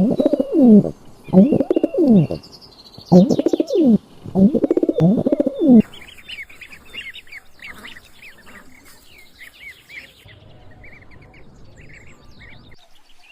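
Loud, low bird calls in four bouts over the first six seconds, each a run of bending notes. Faint, high songbird chirps follow.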